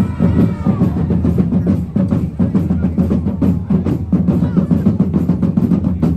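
Drum-led music: drums playing a fast, dense rhythm with rolls, over a steady low note.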